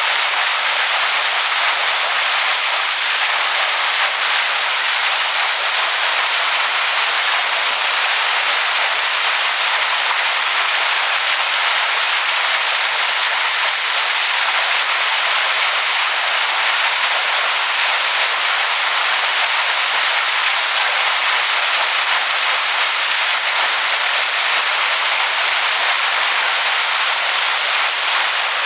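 Waterfall splashing onto rocks: a steady, even rush of water, mostly hiss with little deep rumble.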